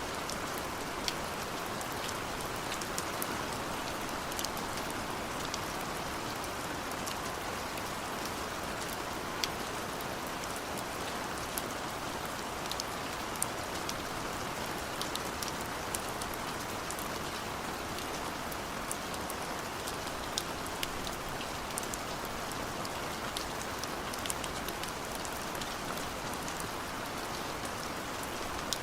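Steady rain falling, an even hiss with many scattered sharp drop ticks on top.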